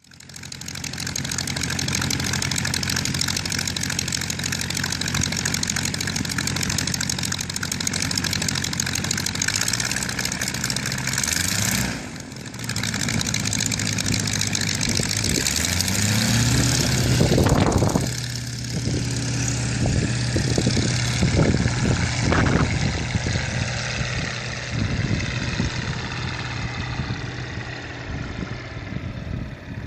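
Verner Scarlett 7Hi seven-cylinder radial aircraft engine running under load with a 2.2 m propeller. It runs steadily, then a little after halfway the pitch rises as it is throttled up, drops back suddenly, and the engine runs on at lower power.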